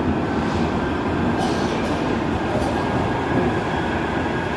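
Manchester Metrolink tram running, a steady even noise.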